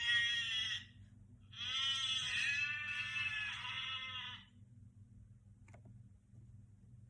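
Goat bleating: one bleat that ends about a second in, then a longer bleat of about three seconds.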